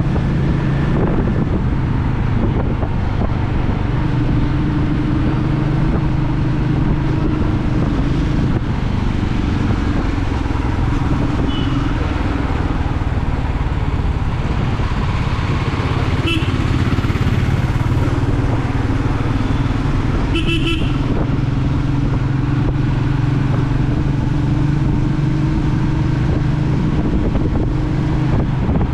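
Royal Enfield Meteor 350's single-cylinder engine running steadily while cruising, under wind and road noise. A horn beeps briefly a few times around the middle, the last a quick series of toots.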